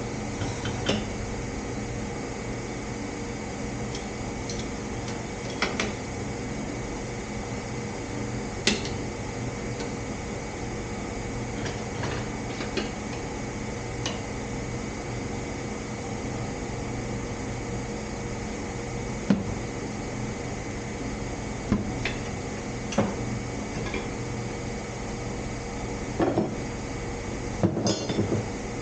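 Steady hum of a shop fan, with scattered short metallic clinks and knocks from tools being handled, about a dozen spread irregularly.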